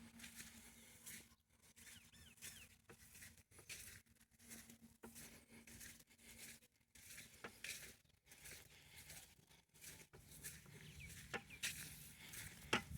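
Quiet rural ambience with a few faint bird chirps and scattered small clicks and rustles.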